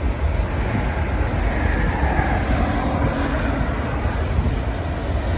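Union Pacific freight train rolling past: a steady rumble of the cars' wheels on the rails as the rear of the train goes by.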